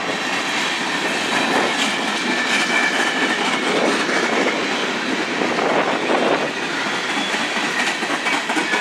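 Freight cars of a coal train rolling past close by, their steel wheels clattering over the rail joints in a steady rush, with a faint high wheel squeal at times.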